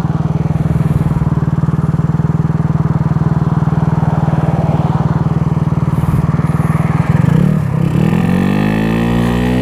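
A scooter's GY6 single-cylinder four-stroke engine, fitted with an 88cc big bore kit that is still being broken in, running at a steady note. About seven seconds in the note wavers, then it climbs steadily in pitch as the scooter accelerates.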